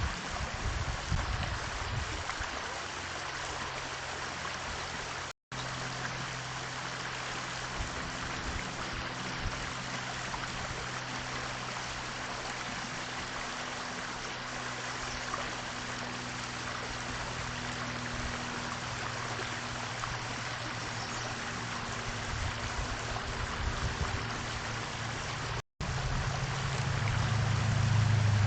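Steady rushing noise with a low hum that sets in a few seconds in and grows louder near the end. The whole sound cuts out to silence twice, very briefly.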